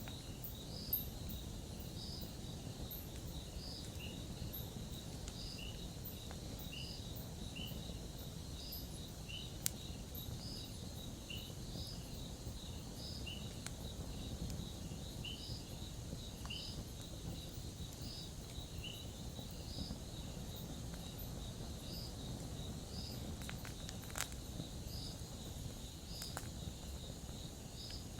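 Crickets chirping in a steady rhythm, about one chirp a second, over a low steady rushing noise, with a few sharp crackles from the campfire.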